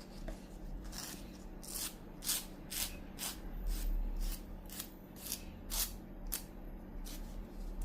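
Nail file scraping across a fake nail in short, repeated strokes, roughly two a second, starting about a second in: roughening the nail's surface so the glue grips better.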